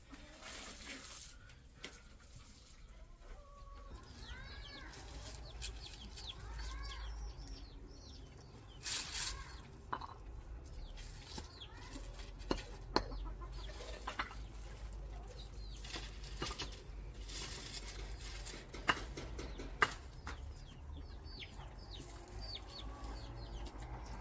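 Birds calling in short, arched calls that come in little groups, with a few sharp knocks scattered through, the loudest about halfway and two-thirds of the way in.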